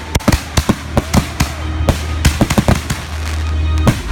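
Consumer fireworks going off in a rapid run of sharp bangs, several a second, over a low steady rumble that swells near the end.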